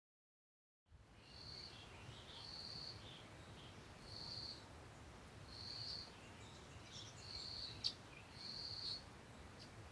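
A bird calling one high, steady note over and over, six times about every second and a half, with fainter chirps between, over a low background hum; a sharp click comes about eight seconds in.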